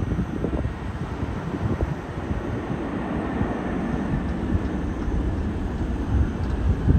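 Jet engines of a Boeing 777 airliner giving a steady, deep rumble that swells louder near the end, with low gusty buffeting on the microphone.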